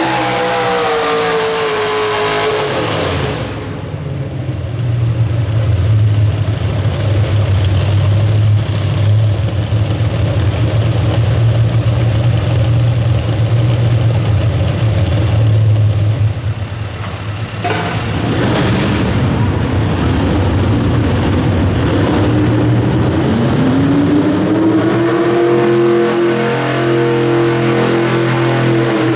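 Pulling truck's high-revving engine at full throttle. Its pitch drops in the first few seconds, then it settles into a steady, loud, deep drone. The sound changes abruptly about eighteen seconds in, and the revs climb again over the last few seconds.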